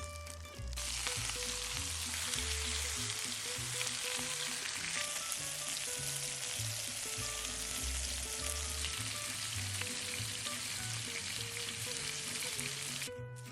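Food sizzling and crackling as it fries on a hot pan or grill, starting suddenly a little under a second in and stopping sharply near the end. Soft background music plays underneath.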